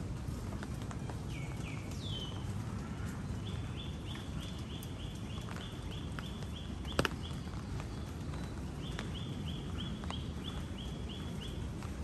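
A bird calling in two runs of rapid, evenly repeated short high notes, about three or four a second, each note dipping slightly in pitch, over a steady low background rumble. A single sharp click about seven seconds in.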